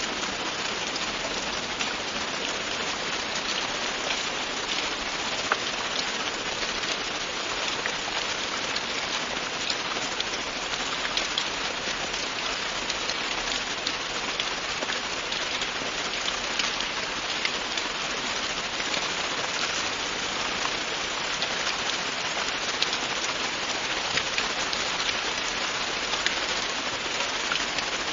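Steady rain with many distinct drops pattering on a surface, an even hiss without letting up.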